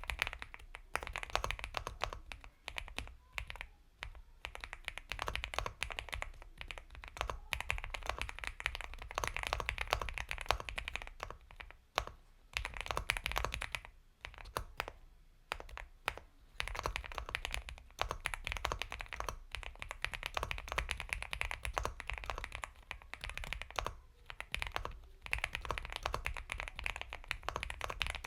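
Fast typing on an Epomaker x Feker Galaxy 80 mechanical keyboard with Gateron Milky Yellow Pro linear switches: dense runs of soft keystrokes with brief pauses between bursts.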